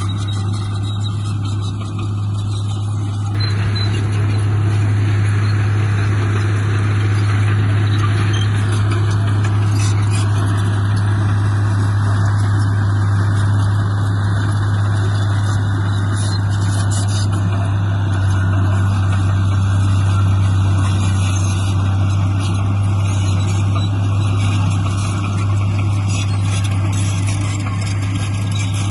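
Diesel engine of heavy earthmoving machinery running steadily with a deep, constant drone. About three seconds in the sound grows fuller and stays that way, as the machine works under more load.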